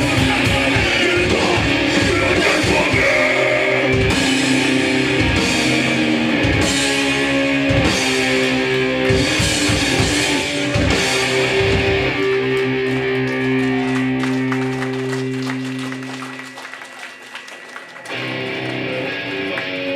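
Hardcore punk band playing live: distorted electric guitars, bass and drum kit with shouted vocals. Around twelve seconds in the band holds a chord that rings out. The sound drops away for a second or so, and the full band crashes back in near the end.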